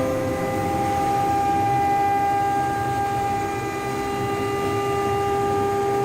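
CNC router spindle running at constant speed with a steady high whine.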